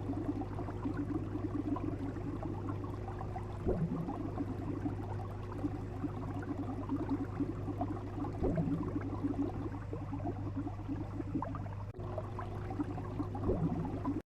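Water bubbling and crackling over a steady low hum, with a short rising swoosh about every five seconds, offered as a fish sound effect. The sound drops out briefly near the end and then cuts off suddenly.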